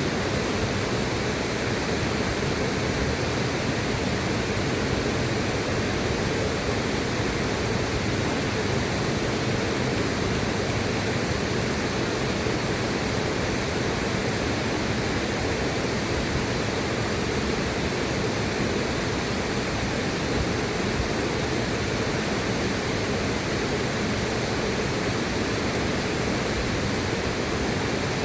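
Steady rushing of river water, an even unbroken noise with no separate splashes or other events.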